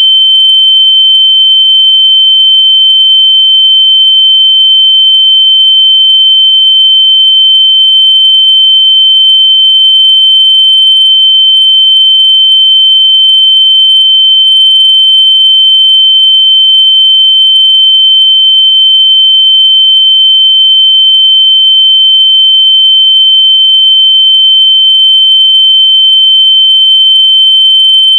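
A loud, steady, high-pitched electronic tone of about 3 kHz, held unbroken with no change in pitch or level. It is a locator tone meant to be played through lost AirPods so they can be heard and found.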